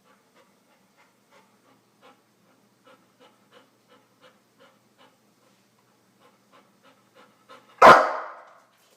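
An animal making quick, faint, evenly spaced breath-like sounds, about two to three a second, then one loud, sharp call about eight seconds in that fades out quickly.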